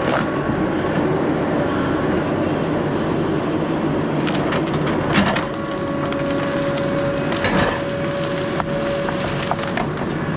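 A heavy tracked logging machine's diesel engine working under load, with wood cracking and splintering several times as it handles a big log and breaks limbs, the sharpest cracks about four, five and seven and a half seconds in.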